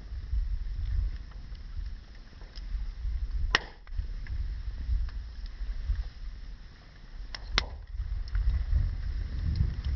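Wood fire burning: a low rumble throughout, with a few sharp pops from the burning wood, one about a third of the way in and two close together later.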